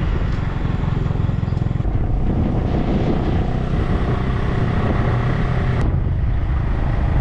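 Steady low rumble of road vehicle engine noise.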